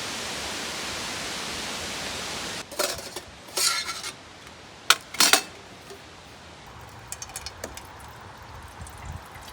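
A steady hiss cuts off about two and a half seconds in. Then come clanks and clinks of camp cookware, a pot and utensils being handled, with the sharpest clink about five seconds in and a few faint clicks later.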